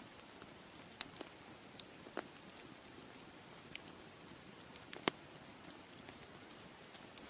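Bonfire crackling: a low, steady hiss of burning wood broken by sharp, irregular pops and snaps, the loudest about five seconds in.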